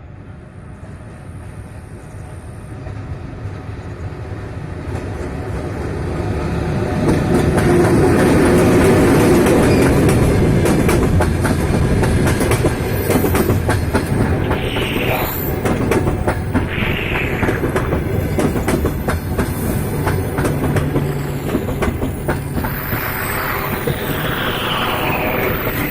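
EP1P electric locomotive and passenger coaches rolling through a station. They grow louder over the first several seconds, with a steady clickety-clack of wheels over rail joints. Short falling-pitch wheel squeals come in the second half.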